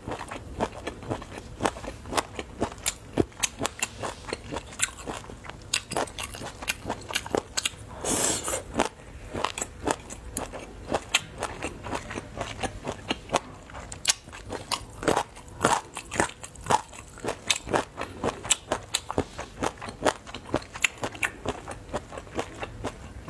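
Close-miked chewing and biting of chicken feet: a dense run of wet, crackling clicks and crunches from the skin and small bones, with a longer hissing suck about eight seconds in.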